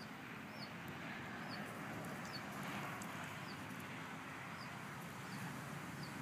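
Small bird calling from a tree, a short falling chirp repeated about once a second.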